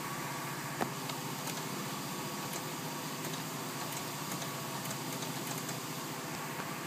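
Jeep Liberty engine idling steadily, heard from inside the cabin, with one sharp click about a second in.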